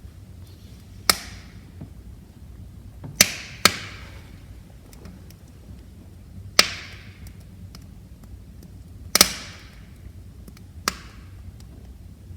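Wood fire crackling in a fireplace: about six sharp pops, each trailing off quickly, with fainter ticks between them over a low steady rumble.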